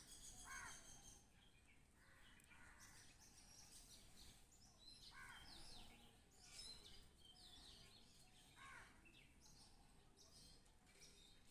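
Faint birds calling in the background over near silence: a handful of short calls every few seconds.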